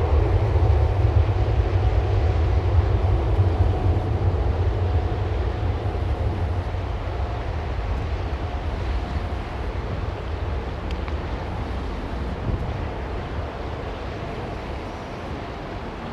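Boeing 777-200's twin jet engines at takeoff power: a heavy, steady low rumble that slowly fades as the airliner departs.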